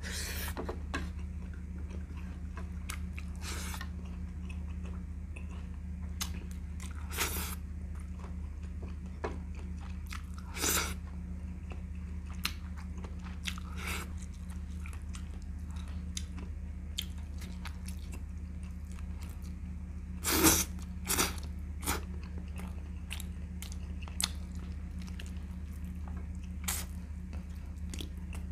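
A man eating chicken legs by hand: chewing and biting, with a few short sudden mouth sounds, a cluster of the loudest about twenty seconds in, over a steady low hum.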